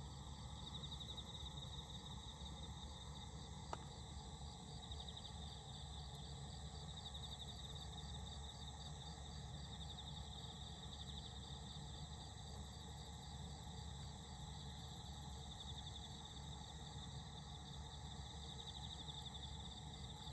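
Crickets chirping at night after rain: a trill that swells and fades every few seconds, with a second, faster even pulsing under a low steady background hum. One faint click about four seconds in.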